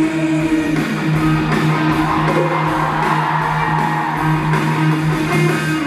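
Live band music with guitar: a chord is held and sustained, then it stops near the end.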